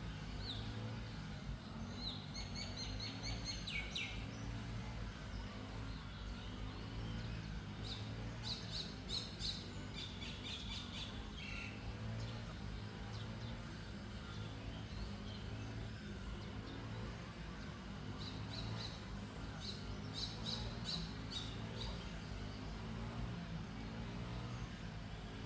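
White-rumped shama singing in three spells of quick, high whistled notes, near the start, about a third of the way in, and again past the two-thirds mark, over a steady low background hum.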